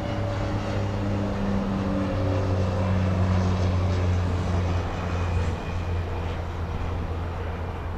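International Harvester 345 cubic-inch V8 running on open headers with no pipes or mufflers, a deep steady rumble. It swells a little in the middle, then eases back after about five and a half seconds.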